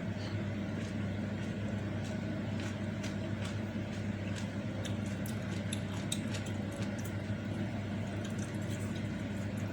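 Close-up eating sounds of meatball soup and noodles: chewing and slurping with many small, irregular clicks, over a steady low hum.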